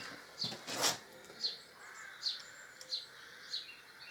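A small bird chirping repeatedly, short high falling chirps coming about every two-thirds of a second. In the first second there are two or three short scuffing noises, the loudest sounds here.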